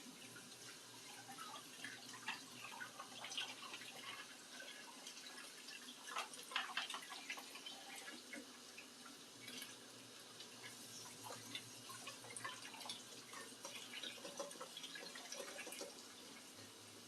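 Dishes being washed at a kitchen sink: faint running tap water with scattered clinks and knocks of dishware, busiest about six seconds in.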